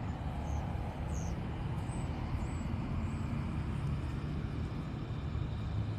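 Steady low outdoor rumble, with a few faint short high chirps in the first few seconds.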